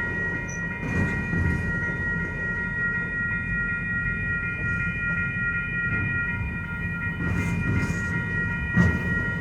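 Norfolk Southern freight train rolling past with a steady rumble, its wheels knocking over rail joints every so often, loudest near the end. A steady high ringing tone runs over it.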